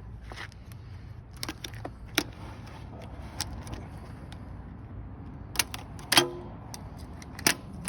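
Hand tools and metal battery hardware clicking and clinking as a cable lead is worked off a terminal stud on a Toyota Prius hybrid battery pack: about seven separate clinks, the loudest about six seconds in with a brief ring.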